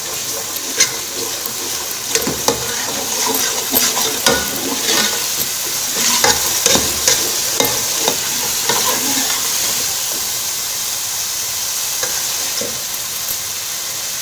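Onion-and-spice masala, with yogurt mixed in, sizzling as it fries in oil in a metal pot, while a steel spoon stirs it with repeated scrapes and clicks against the pot. The scraping stops about ten seconds in and the steady sizzle carries on.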